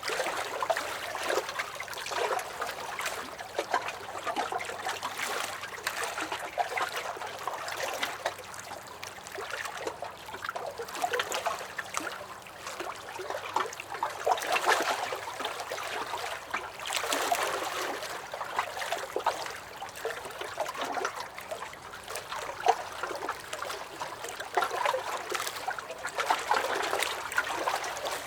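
Small lake waves lapping and splashing against a dock, an irregular run of little slaps and gurgles that swells and eases every few seconds.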